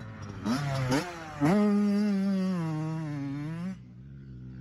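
Pit bike engine revving: two quick throttle blips, then held hard on the throttle for about two seconds with its pitch slowly falling, before the throttle is shut off suddenly near the end.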